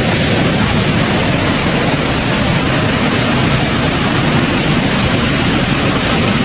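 A loud, steady rushing noise, even from low to high pitch, with no separate knocks, tones or voices.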